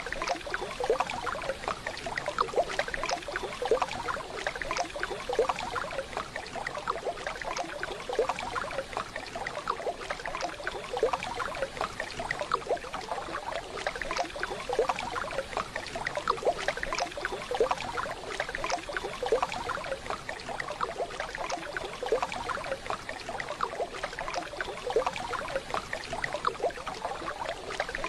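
Waterfall sound: running water burbling steadily, with a dense, irregular patter of small splashes.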